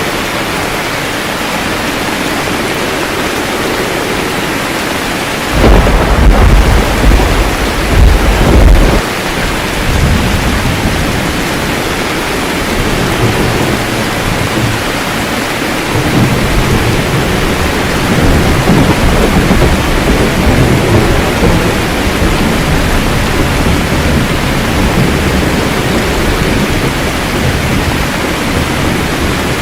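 Steady rain with a sudden loud clap of thunder about five seconds in that rumbles on for a few seconds, then a second, softer roll of thunder rumbling low near the middle.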